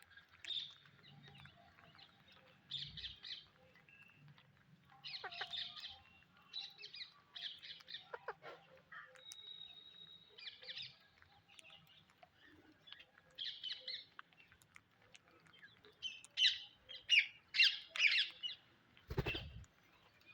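Psittacula parakeets calling in short, sharp chirps and squawks, scattered throughout, with a louder quick run of calls near the end. Just before the end there is a brief low thump.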